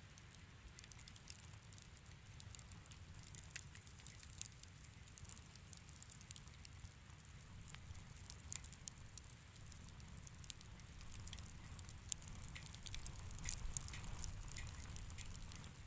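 Wood fire crackling in a fireplace: faint, scattered sharp pops over a low steady rumble, the pops growing thicker in the last few seconds, with one louder pop about twelve seconds in.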